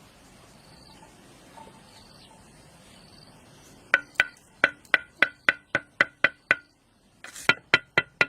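Hammering: a quick run of about ten blows with a ringing metallic note, then three more blows near the end.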